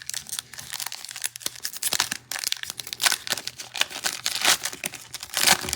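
A football trading card pack's wrapper being torn open and crinkled by hand, with irregular crackling that grows loudest near the end.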